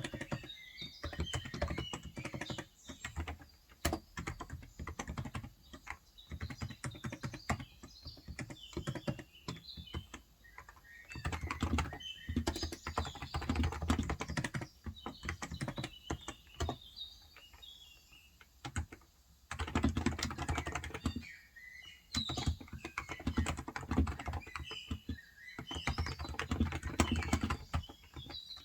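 Typing on a Cox Endeavor electrostatic capacitive (Topre-style) tenkeyless keyboard with 35 g switches: fast runs of keystrokes in bursts with a few short pauses. Small birds chirp in the background.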